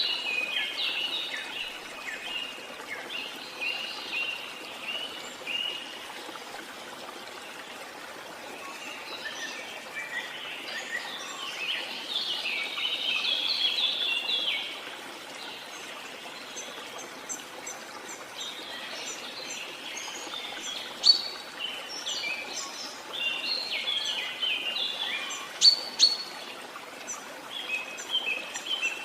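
Birds chirping and calling in dense, overlapping bursts over a steady rush of running water, with a few sharper, higher chirps in the second half.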